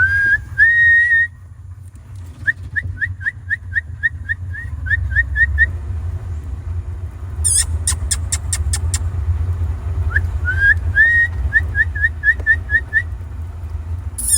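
A person whistling to call monkeys: a long whistle, then runs of quick rising chirps, about five a second. Twice a brief run of sharp high clicks cuts in, over a steady low rumble.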